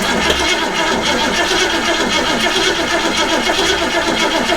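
Starter motor cranking the 1967 Ford Mustang's engine over steadily without it catching: a no-start, cranked to check whether the fuel pump leaks.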